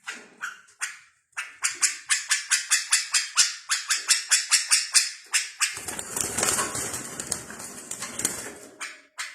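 Small songbird calling in a rapid run of sharp, high chirps, about four to five a second, then a dense rasping noise lasting about three seconds before the chirps start again near the end.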